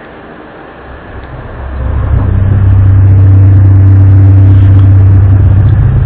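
A loud, low, steady droning hum with a few overtones, swelling up over the first two seconds and then holding. It is one of the rumbling, vibrating 'strange sounds' of unknown origin reported around the world in early 2012.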